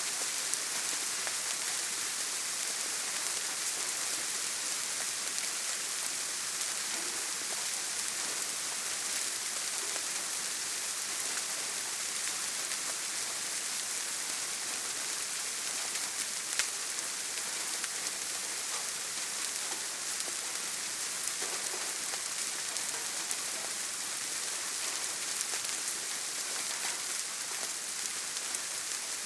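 Steady heavy rain drumming on a tin roof: a dense even hiss with scattered sharper ticks of single drops, one a little louder just past the middle.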